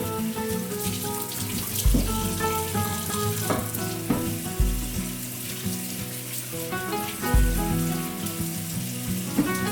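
Soft background music with sustained notes and a deep bass note every couple of seconds, over a steady hiss of water running from a kitchen tap.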